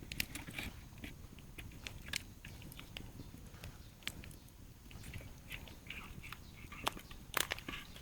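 Plastic bag being handled and tied off, with irregular small crinkles and clicks and a few sharper ones near the end.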